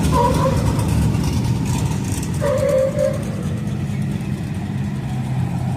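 Car engines running with a steady low rumble as cars cruise past, with a short higher tone sounding twice, once at the start and again about two and a half seconds in.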